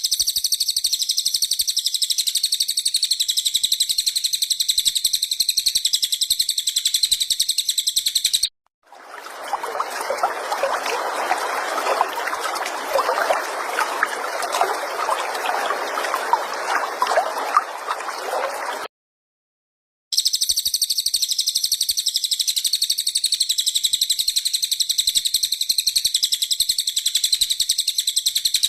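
Recorded songbird tutor material: a fast, buzzing, high-pitched trill repeating without a break, which the track presents as cililin song. About nine seconds in it cuts to a lower, rougher crackling, trickling sound for some ten seconds, then the high trill returns after a short gap.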